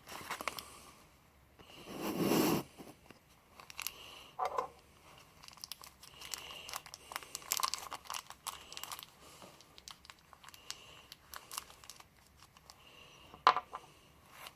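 Small pen-kit parts being laid out on a workbench: scattered light clicks and taps, the loudest near the end, with a brief rustle about two seconds in.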